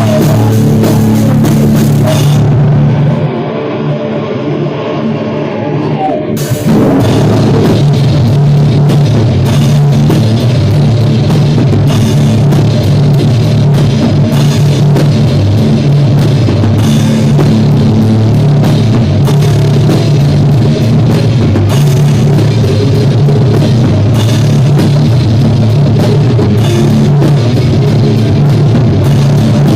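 Rock band rehearsing live: drum kit with cymbals and amplified guitar, loud and harsh. A few seconds in the cymbals drop out and the sound thins, then the full band comes back in at about six and a half seconds and keeps playing.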